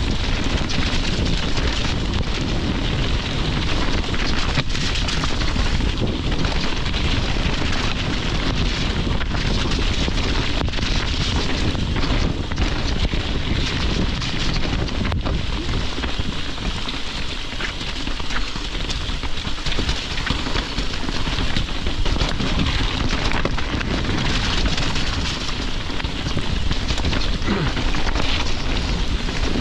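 Steady rushing noise of rain and wind on the microphone, with a few sharp clicks or knocks.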